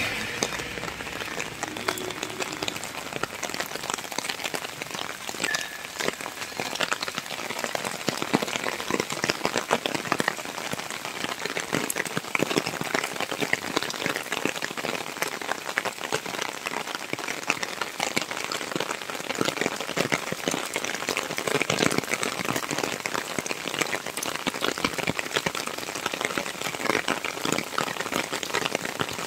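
Heavy rain falling steadily on a wet paved road, an even hiss dense with the taps and splashes of close raindrops.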